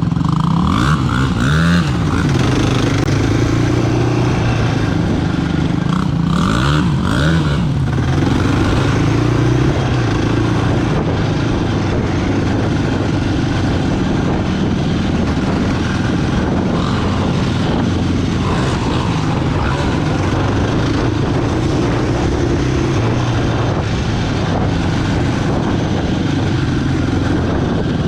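Off-road quad bike engine running continuously, with the revs rising and falling in short blips near the start and again around six to eight seconds in.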